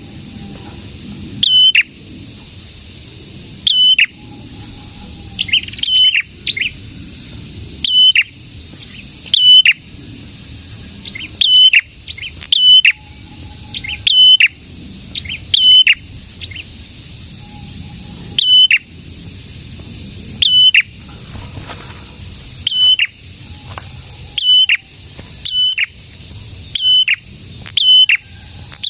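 Prenjak singing in full, energetic voice: a loud, sharp call note repeated about every one to two seconds, each a short high note that drops steeply, sometimes given in quick pairs, over a steady low hiss.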